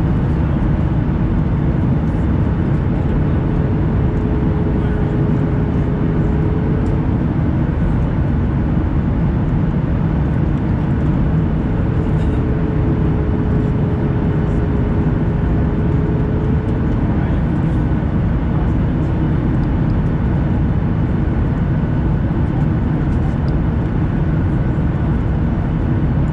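Steady jet engine and airflow roar of a Boeing 737 in flight, heard from inside the passenger cabin. A faint steady hum comes in twice and fades.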